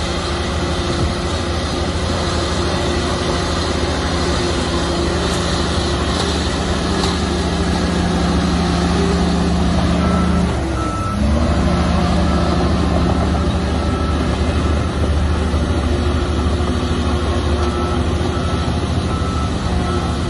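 Heavy diesel earthmoving machinery engine running hard and steadily. About halfway through, the engine note dips briefly and changes. A reversing alarm beeps for a short spell then, and again near the end.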